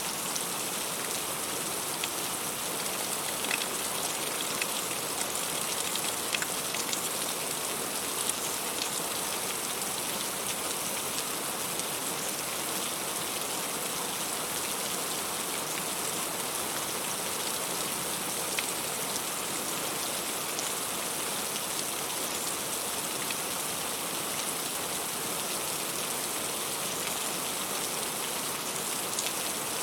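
Heavy rain falling steadily, with scattered sharper ticks of individual drops hitting.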